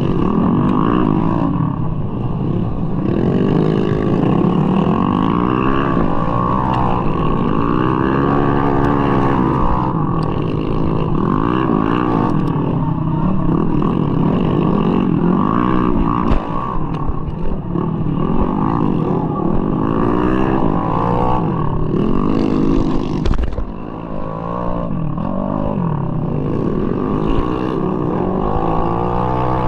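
Tuned 200cc bore-up Mahindra Rodeo scooter engine, heard from on the bike, revving up and down over and over, its pitch rising and falling every couple of seconds as the throttle is opened and closed. It eases off briefly a little after the middle.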